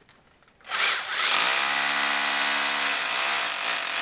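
An electric power tool switches on about a second in and runs loudly and steadily, with a wavering high whine later on.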